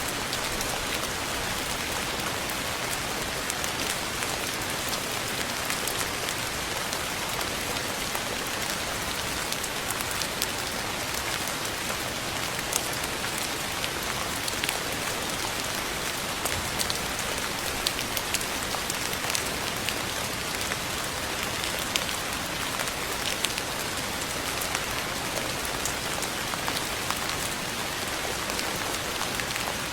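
Steady rain falling, a continuous hiss with many scattered sharp ticks of single drops striking a surface.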